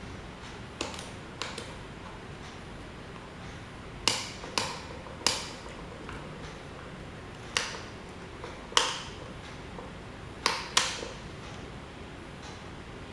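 Sharp taps and clinks of hard parts being handled or knocked together, about nine in all and spaced irregularly, each with a brief ring, over a steady faint hiss.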